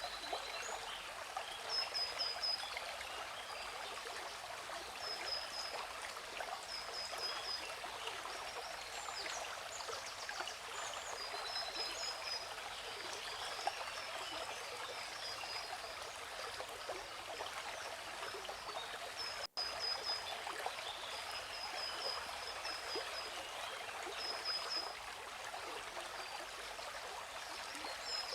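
Waterfall rushing steadily, with small birds chirping over it in short, high, repeated notes. The sound drops out completely for an instant about two-thirds of the way through.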